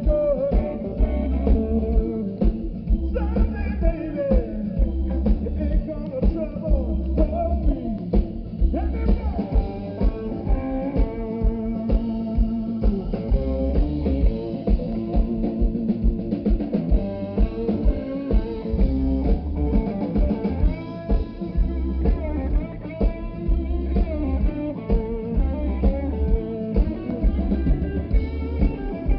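Live blues band playing an instrumental stretch of an old blues standard: lead guitar bending notes over drum kit and bass, with a steady beat.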